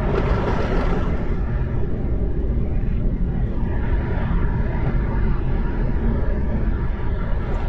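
Steady low rumble of a car driving on a snowy road at about 60 km/h, heard from inside the cabin, with a brief hissing swell in the first second.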